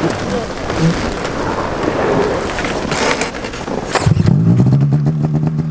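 Rough, rumbling wind-like noise with scattered cracks. About four seconds in, it gives way abruptly to the steady drone of a snowmobile engine running at an even speed.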